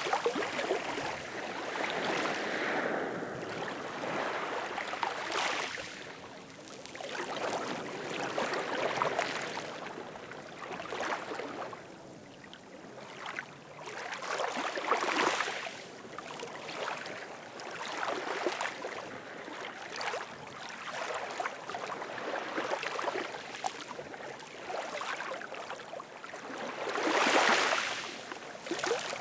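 Ocean waves washing in and drawing back in repeated surges a few seconds apart, the biggest one near the end.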